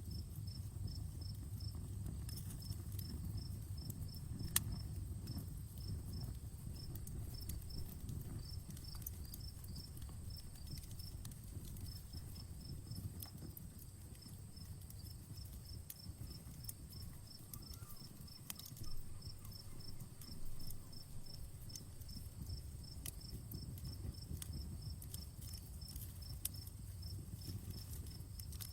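Campfire crackling with scattered sharp pops, one louder pop about four and a half seconds in, over a steady low rumble of the flames. Crickets chirp in a quick, even rhythm throughout.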